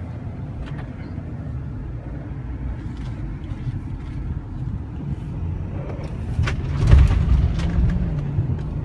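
Ford F-350's 6.7-liter turbo-diesel V8 idling with a steady low rumble, getting louder about seven seconds in.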